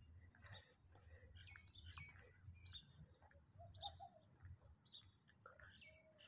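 Faint outdoor ambience with scattered short bird chirps over a low background rumble.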